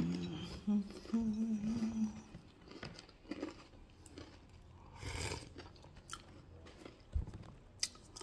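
A person biting into and chewing a dry cracker, with small crisp crunches and clicks spread through. A short hummed "mmm" comes about a second in.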